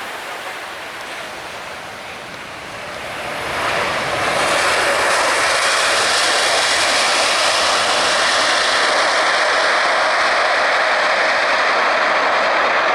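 Jet airliner's engines: a roar that swells about three seconds in, then holds loud and steady.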